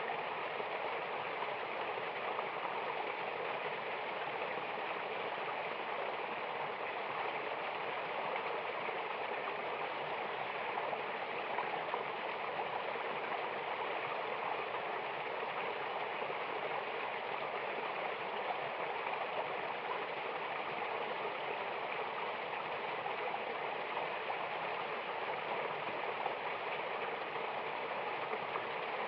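Mountain river and waterfall water rushing steadily, an even hiss-like roar of water with no change throughout.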